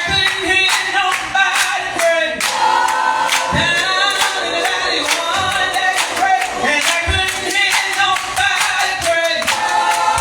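Gospel choir singing a song over a steady beat.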